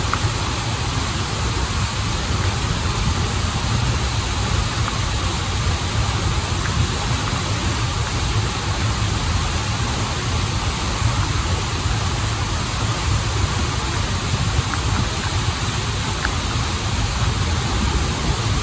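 Waterfall and river water rushing steadily: an even hiss over a deep, continuous low rumble.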